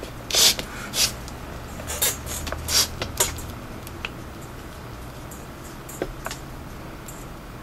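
Leather lace being drawn through the lace holes of a catcher's mitt: several quick scratchy rasps in the first few seconds, then a few faint creaks and ticks of the leather being handled.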